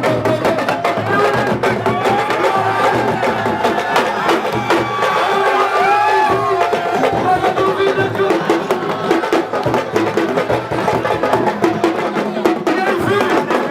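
Music: fast, dense drumming with voices singing over it.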